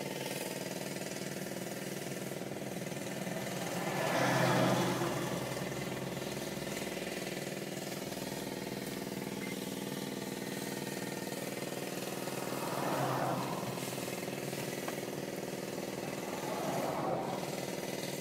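A vehicle engine idling steadily, with three other vehicles swelling past, the loudest about four seconds in and two smaller ones later.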